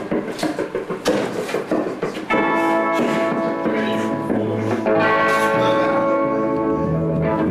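Guitar on a live band's amplified sound: a few scattered picked notes and knocks, then from about two seconds in, sustained ringing chords held steadily, with a low note joining later as the next song begins.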